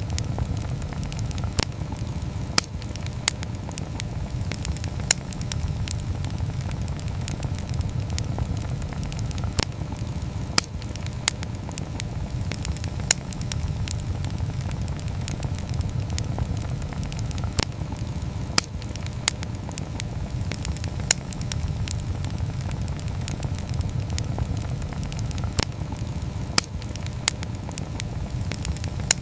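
Wood campfire burning: a steady low rumble with sharp, irregular pops and crackles every second or so.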